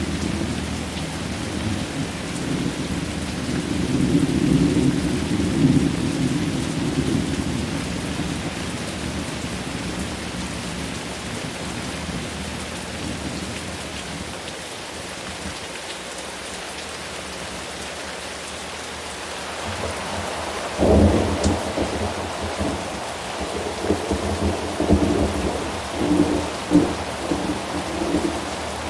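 Steady rain with thunder. A long, deep roll of thunder swells and fades over the first several seconds, leaving the rain alone for a while. About 21 seconds in, a sharp thunderclap is followed by crackling, rumbling thunder.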